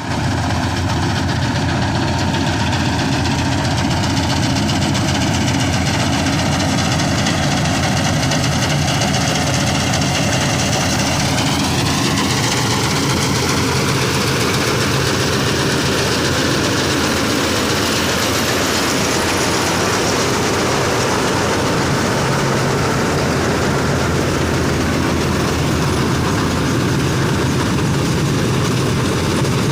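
John Deere 5310 tractor's diesel engine and Dasmesh 912 combine harvester machinery running steadily and loudly. About twelve seconds in, a high whine rises in pitch and then holds at the higher speed.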